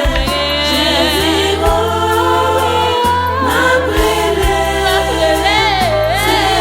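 Music: a choir singing with wavering vibrato over held bass notes, in the style of a gospel song.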